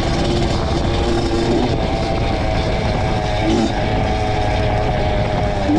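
Honda CR two-stroke dirt bike engine running under way, its pitch climbing and settling as the throttle changes, over a heavy low rumble.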